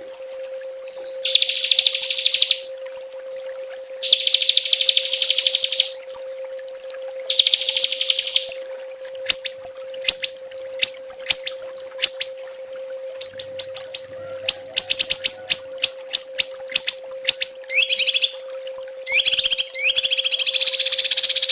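Small songbird giving 'tembakan' calls: several fast, dense high trills about a second and a half each, then a run of sharp single chirps, some in quick series, and the trill again near the end.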